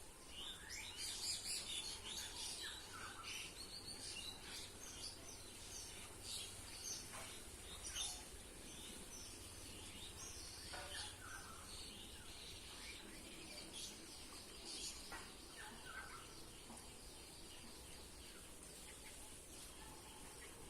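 Many small birds chirping and calling, busiest in the first few seconds and sparser later, over a faint steady high hiss.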